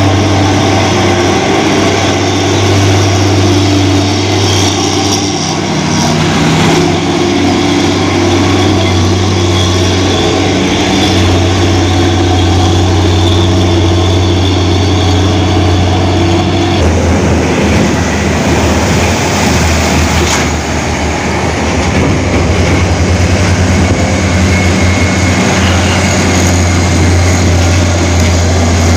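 Heavy diesel truck engines running loud and close, with a deep steady drone; about two-thirds of the way through the sound changes to a rapid low pulsing as a different engine takes over.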